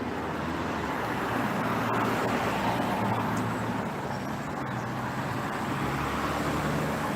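Road traffic: a car's engine running and tyres on the road, a little louder a couple of seconds in.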